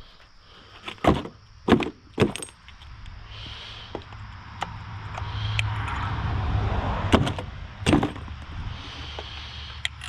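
Metal hand tools clinking as a socket, extension and magnet are worked in the spark plug wells to pull the old plugs: sharp clinks about a second in, twice near two seconds, and twice more around seven and eight seconds, over a low rumbling noise that swells in the middle.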